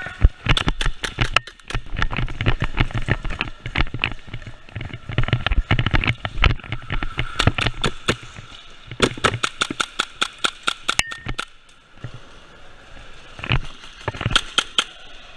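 Airsoft guns firing in several rapid strings of sharp pops, with a short lull about three-quarters of the way through.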